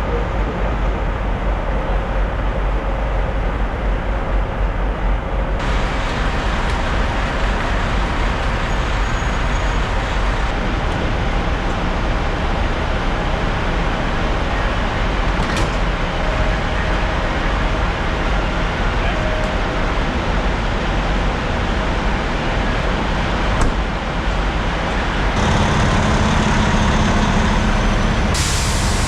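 Semi-truck on the road: steady engine and road noise that changes abruptly several times.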